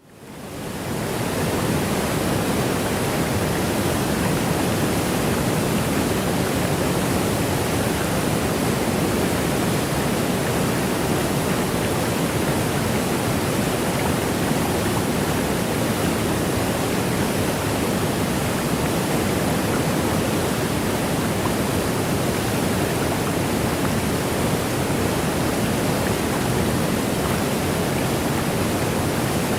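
Waterfall white noise: a steady, even rush of falling water, fading in over about the first second and a half, then holding constant.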